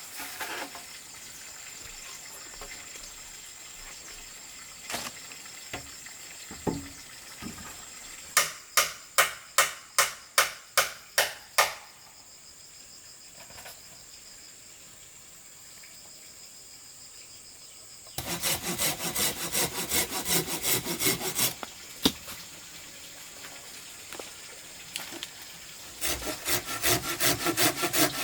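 Hand saw cutting wood in three bouts: first about a dozen even strokes at roughly three a second, then two runs of faster, denser strokes later on.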